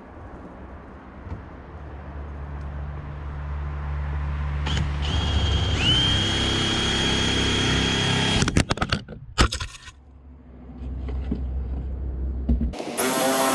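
Electric power tool motor running in several spells: a low hum building up, a high steady whine, a few sharp clicks, then a strong steady whine starting again near the end.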